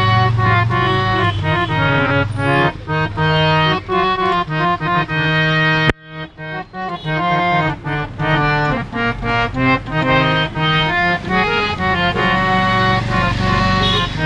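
Hand-pumped harmonium playing a melody over held reed chords. A sharp click and brief drop in sound come about six seconds in, then the playing resumes.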